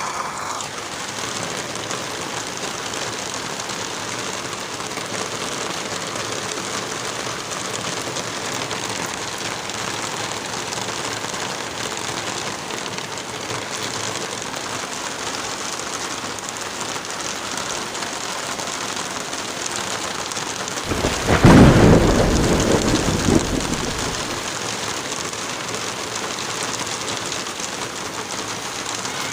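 Steady rain pouring down. About two-thirds of the way through, a thunderclap breaks in and rumbles away over a few seconds.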